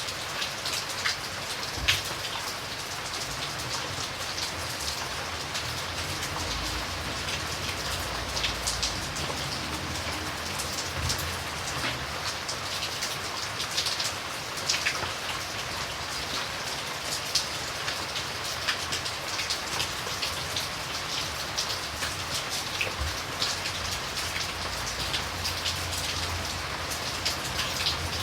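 Steady rain, with many single drops clicking sharply close by over the even hiss of the downpour.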